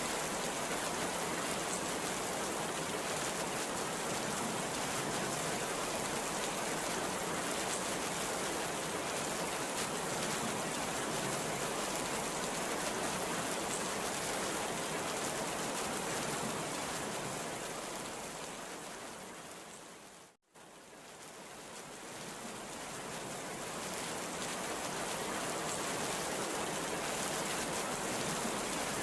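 Heavy rain falling in a steady, even hiss. About two-thirds of the way through it fades down to a moment of silence and fades back up, like a loop point in the recording.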